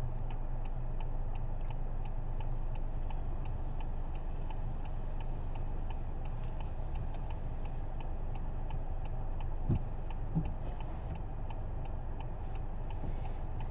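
Inside a moving car: steady engine and road rumble with a turn-signal indicator ticking evenly, about three clicks a second. A few short swishing sounds come in the second half.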